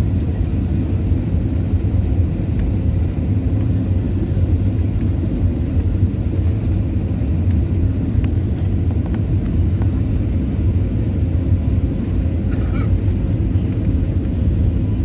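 Airliner cabin noise on an Airbus A320: a steady, deep rumble of the engines and airflow.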